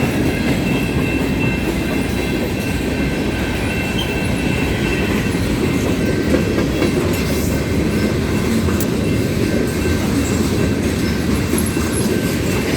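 CSX freight train rolling past close by: a steady heavy rumble of railcars on the track, with a faint thin high whine and scattered clicks from the wheels.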